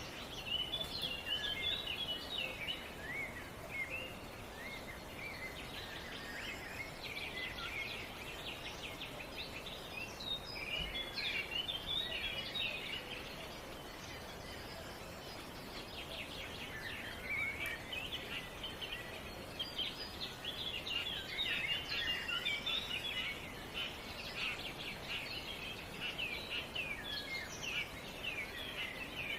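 Songbirds chirping and trilling, many short calls overlapping throughout, over a steady outdoor background hiss.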